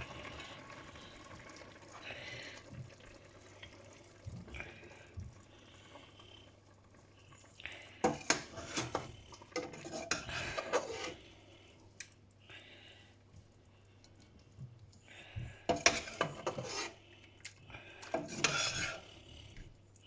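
Plates and cutlery clinking and clattering in several short bursts, the loudest about halfway through and again near the end.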